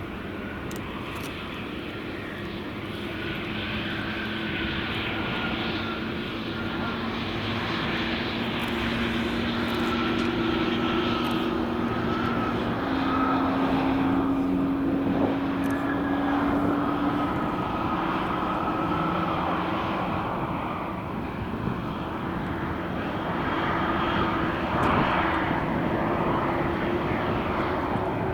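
Jet airliner's engines running as the plane passes, a roar with a steady low hum and a higher whine, growing louder through the first half and staying loud.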